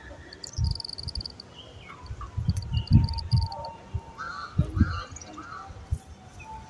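Birds calling: short high trilled chirps in the first half, then three lower, harsher calls about two-thirds of the way through. Low thumps sound underneath.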